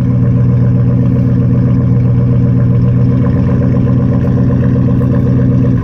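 Chevy Tahoe's 5.7 L Vortec V8 (Chevy 350) idling loudly and steadily through dual exhaust with Flowmaster Super 10 mufflers, shortly after a cold start. It cuts off suddenly at the very end as the engine is switched off.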